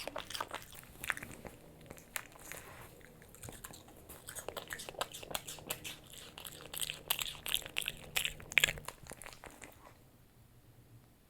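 A Japanese Chin crunching and chewing a hard treat, with quick irregular crunches that die away about nine seconds in.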